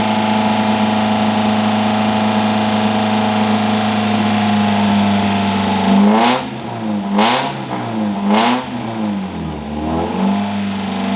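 A freshly rebuilt Mazda Miata four-cylinder engine held at a steady fast idle during break-in, kept from idling down. About halfway through, the throttle is blipped three times, the revs rising and falling each time. The revs then sag briefly before returning to the held speed.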